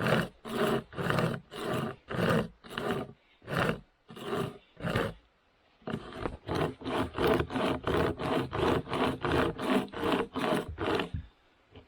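Hand-pulled pocket chainsaw cutting through hard wood, its chain rasping in even back-and-forth strokes, about two a second. After a short pause about five seconds in, a faster run of about three strokes a second follows and stops just before the end.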